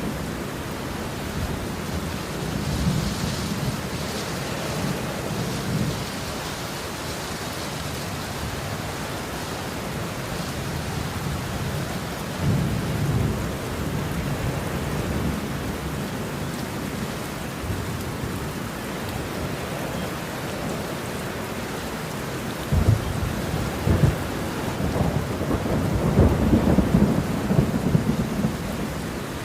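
Steady heavy rain with rolling thunder: low rumbles swell a few times, the strongest building from about three-quarters of the way through to near the end.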